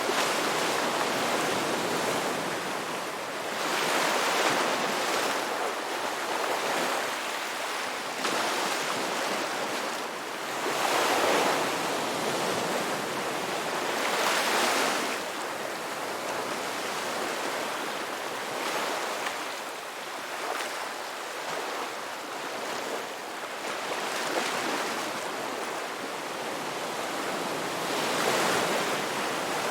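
Ocean waves breaking: a steady hiss of surf that swells irregularly every few seconds as each wave comes in.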